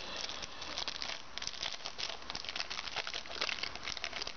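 Crinkling and crackling of a trading-card pack's wrapper being handled and torn open, a steady stream of small irregular crackles.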